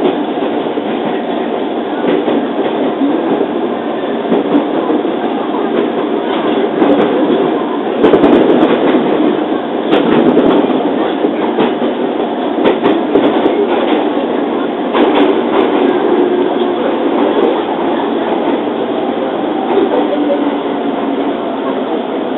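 Running sound of a JR 205 series electric train from inside the car: a steady rumble of wheels on rail, broken by sharp rail-joint clacks, the loudest about a third of the way in and again two-thirds through. Near the end a tone falls slightly as the train begins to slow.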